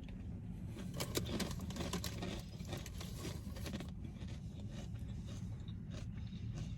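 Close-up mouth sounds of a person chewing a sandwich, with irregular small clicks and crackles, denser in the first few seconds, over a low steady rumble.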